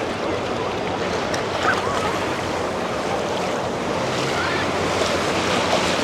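Ocean surf washing steadily on the shore, with wind on the microphone and faint distant voices.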